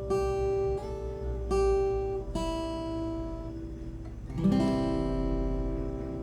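Seagull steel-string acoustic guitar closing the song: several single picked notes, about one every three-quarters of a second, then a final strummed chord about four seconds in, left to ring and fade.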